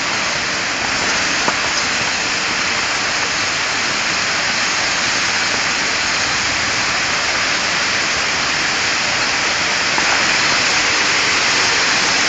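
Torrential rain pouring down in a steady, loud hiss.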